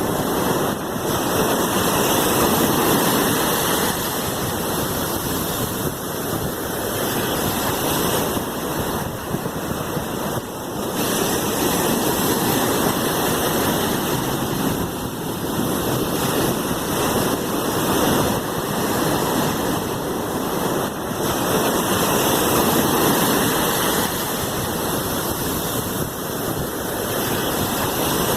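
Sea waves washing in: a continuous rush of surf that swells and eases every few seconds.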